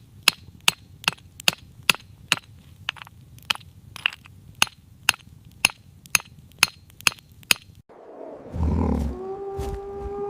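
Crisp crunching footsteps, about two a second, as if walking through snow. About eight seconds in they stop, and a low rumbling roar comes in, followed by a long held horn-like note.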